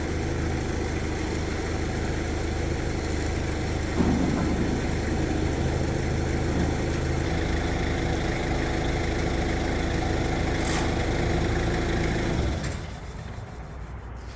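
An engine running steadily, picking up a little and busier in pitch about four seconds in, then dropping away near the end.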